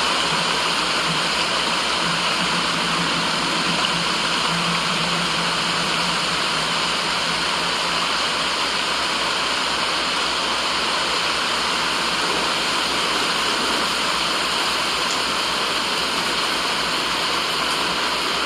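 Steady, even rushing white noise with no breaks or separate events, close in character to flowing water. A faint low hum under it fades about eight seconds in.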